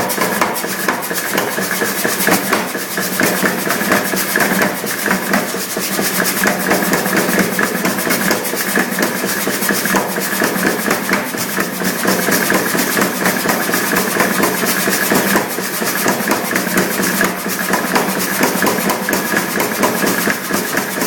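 Mechanical power hammer running, its ram striking in a rapid, steady, continuous rhythm.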